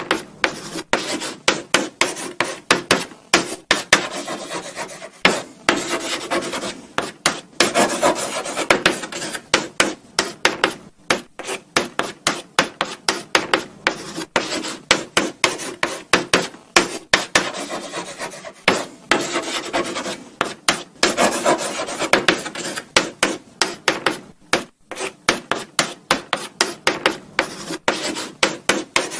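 Chalk writing on a blackboard: short scratchy strokes and taps of the chalk in quick, irregular succession, with a few brief pauses between runs.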